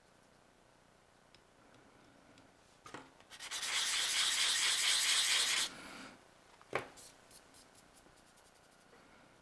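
Sanding a plastic model kit part: a burst of quick abrasive rubbing strokes lasting a little over two seconds, starting about three seconds in. A sharp click follows about a second later, then a few light taps.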